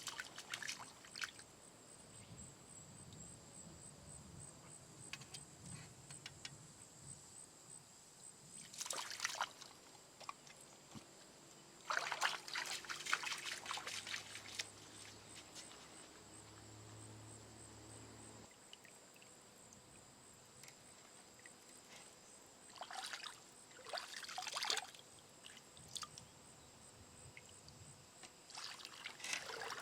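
Water trickling and splashing in short spells, over a faint steady background.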